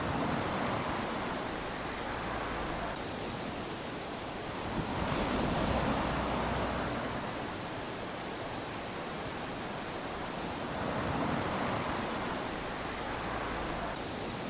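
Small waves lapping onto a sandy beach, each one washing up and draining back, with three swells of surf about five to six seconds apart.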